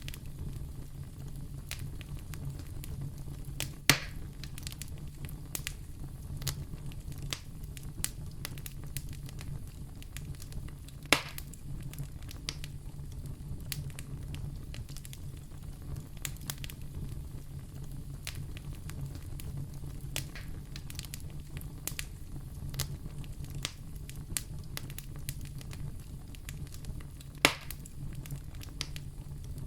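Wood fire burning in a fireplace, crackling steadily with many small clicks over a low steady hum. Three much louder pops stand out: about four seconds in, about eleven seconds in, and near the end.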